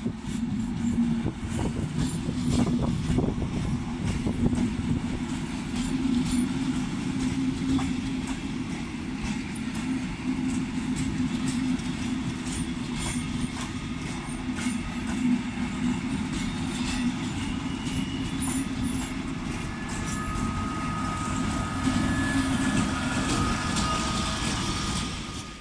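A passenger train of coaches rolling past, with a steady low rumble and wheels clicking over rail joints. Near the end the diesel locomotive at its rear goes by, adding steady higher tones.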